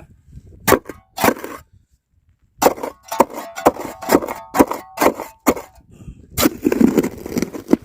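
Metal shovel blade striking and stabbing into hard, packed sandy ground: a series of sharp clanks, two spaced strikes, then a quicker run of blows, some with a brief metallic ring.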